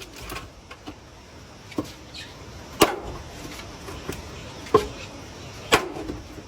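A series of sharp knocks or impacts, four of them roughly a second apart, over a steady background hiss.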